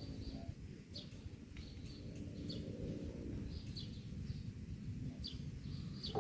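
Small birds chirping, short high chirps every second or so, over a steady low rumble of wind on the microphone.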